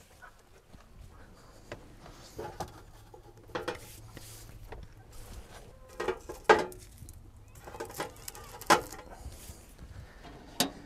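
Irregular knocks and clinks of cooking things and food containers being handled and set down, a few sharper knocks standing out.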